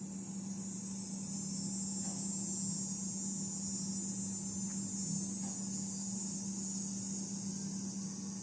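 A high-pitched insect chorus that swells in the middle and eases near the end, over a low steady hum.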